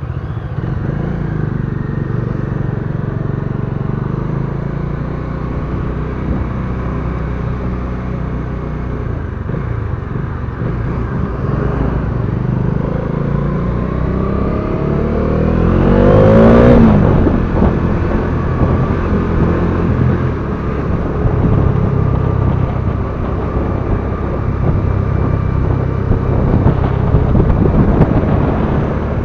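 Motorcycle engine running steadily while riding, a continuous low drone. About halfway through, an engine note climbs in pitch to a loud peak and then drops back.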